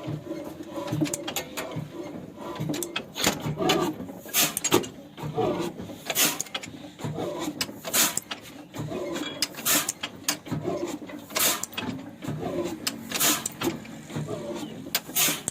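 Mechanical clacking from work on an old stationary diesel engine that is not running: sharp clacks repeat about every second and a half to two seconds, over lighter irregular knocking and rattling.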